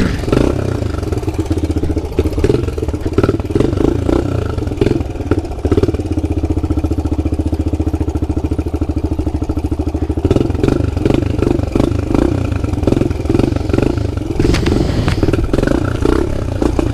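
Pit bike engine running while it is ridden, the throttle opening and closing in uneven pulses, with a steadier stretch of even running around the middle.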